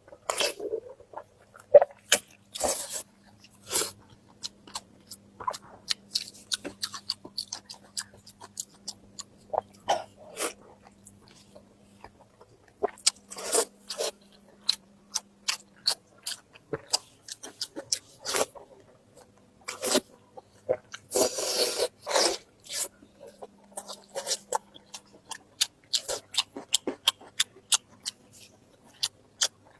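Close-miked eating: a person chewing and biting food, with many short wet smacks and clicks in an uneven rhythm and a longer noisy stretch of about two seconds about two-thirds of the way through.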